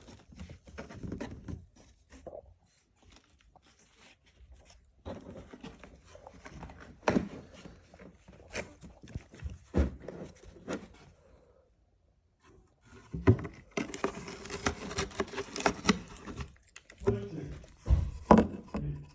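A cat moving about in a cardboard box: irregular scratching and rustling with sharp knocks. It is busiest in a long stretch of scratching about two-thirds of the way through.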